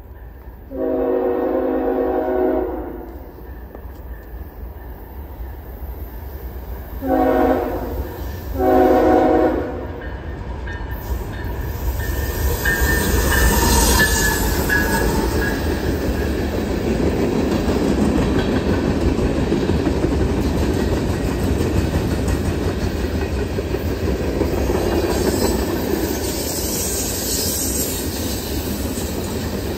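A train's horn sounds one long blast and then two shorter blasts a few seconds later. The train then passes with a steady rumble of wheels on rails that builds and keeps going.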